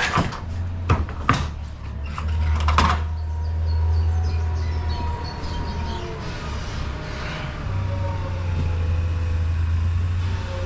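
A vehicle engine running steadily, with several sharp knocks and clunks in the first three seconds.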